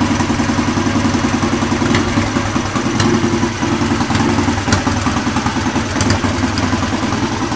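Freshly restored 1976 Triumph T140 Bonneville's 750 cc parallel-twin engine running at a steady idle, with a few light ticks over the exhaust beat.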